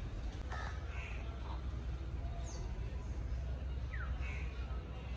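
Birds calling in trees: a handful of short, separate calls, some hoarse and caw-like and others quick falling whistles, over a steady low rumble.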